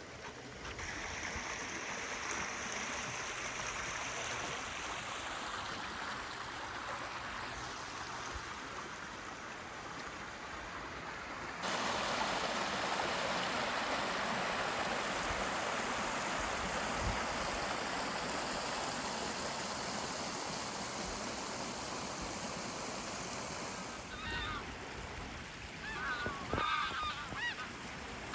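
Rushing water of a flooded river and waterfall, a steady noise that jumps louder about twelve seconds in and drops back about twenty-four seconds in. Near the end, geese honking repeatedly over the water.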